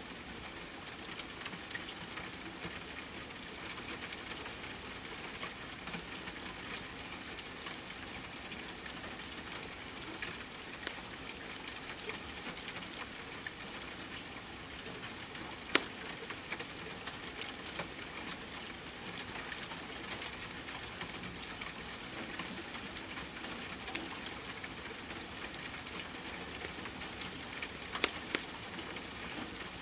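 Steady rain hiss mixed with a fireplace's wood crackling: scattered small pops, with a louder snap about halfway through and another near the end.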